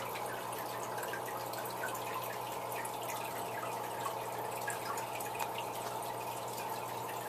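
Hang-on-back aquarium filters running: water from the outflow trickles and splashes steadily back into the tank in many small irregular drips, over a steady low hum.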